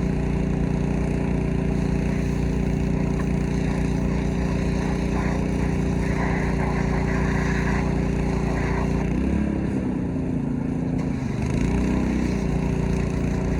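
Gas-engine pressure washer running steadily. A little past two-thirds of the way in, its engine pitch dips and wavers for a couple of seconds, then settles back.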